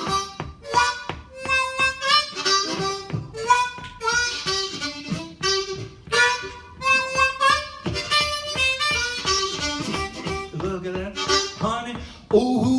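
Blues harmonica playing a rhythmic riff of short repeated chords and held notes, some bent in pitch.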